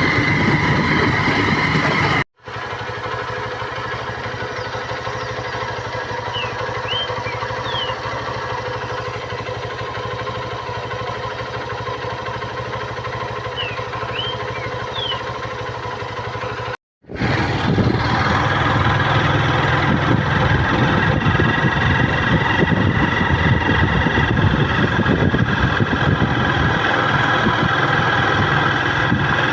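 A vehicle's engine running steadily, heard from on board while driving, with two abrupt breaks where the sound cuts out and resumes.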